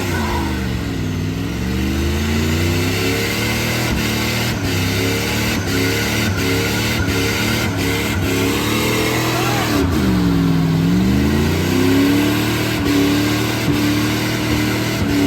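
Turbocharged Dodge pickup's engine revving hard. Its pitch sags and climbs back twice and rises in steps in between, with a few sharp clicks over the middle.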